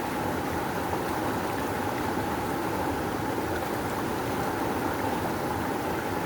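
Rushing river water flowing steadily, an even churning wash without pauses.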